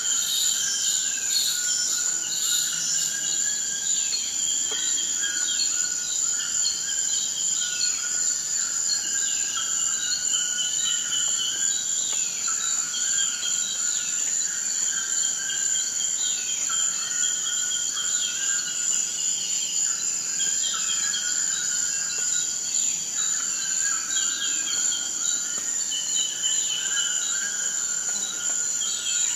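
Forest ambience: a steady, high-pitched insect drone, with many repeated short chirping calls layered over it throughout.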